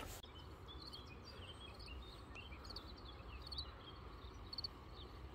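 Small birds singing faintly in many short chirping notes, over a low steady rumble.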